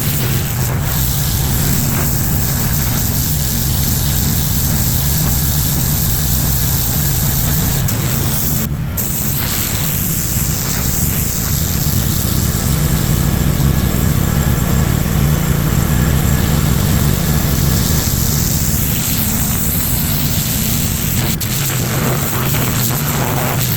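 A pressure washer's engine runs steadily with the hiss of high-pressure water spray over it.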